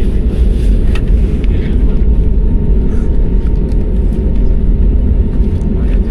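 Steady, loud low rumble of jet airliner cabin noise, with a few faint ticks above it.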